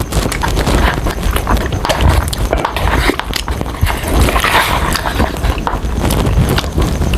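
Close-miked chewing and crunching of crispy Jollibee fried chicken, a dense run of crackles and clicks with wet mouth sounds.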